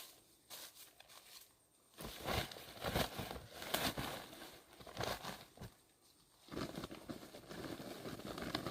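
Crinkling, rustling handling noise with many small crackles, in irregular spells: one from about two seconds in, a short pause, and another starting near the end.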